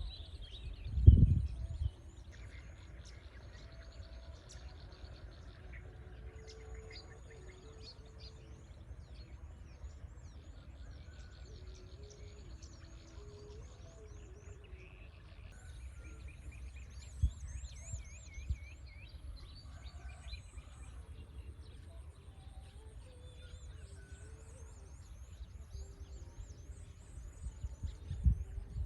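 Birds chirping and trilling, many short high calls overlapping, over a steady low rumble. A loud thump comes about a second in, and a few more bumps near the end.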